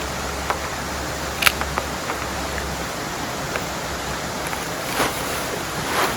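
Steady hiss of heavy rain, with a few sharp taps standing out above it, the loudest about a second and a half in.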